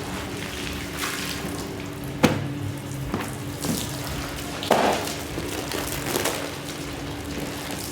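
Water splashing and trickling on a soaked rug during washing, with a few sharp splashing hits, over a steady low hum.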